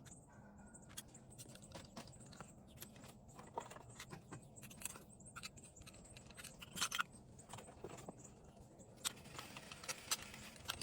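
Faint, irregular clicks, taps and light scrapes of small hard objects being handled, with a few louder clicks about seven and nine to ten seconds in; no motor is running.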